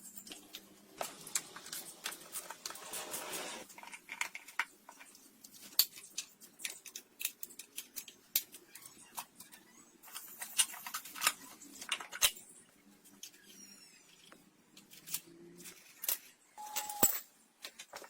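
Irregular light clicks, taps and knocks of hand work on small parts, with a brief tone near the end.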